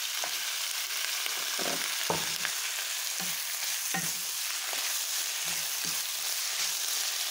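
Sausage, sliced mushrooms and chopped vegetables sizzling steadily in a hot frying pan, stir-fried with a wooden spatula that scrapes and knocks against the pan now and then.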